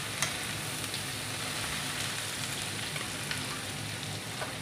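Pointed gourd and potato pieces sizzling steadily in hot oil in a steel kadhai while a metal spoon stirs them. The spoon clinks sharply against the pan once just after the start, with a few fainter knocks later.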